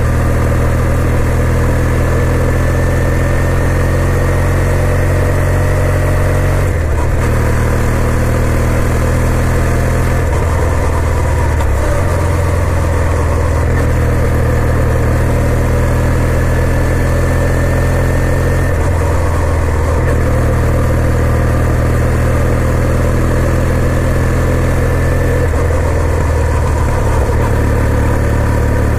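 2020 Kawasaki W800's air-cooled parallel-twin engine running as the bike is ridden, its note changing pitch several times.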